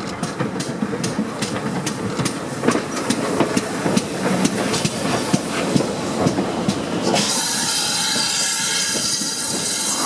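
Train wheels clicking rhythmically over rail joints as carriages roll past. About seven seconds in, a loud steady hiss suddenly takes over.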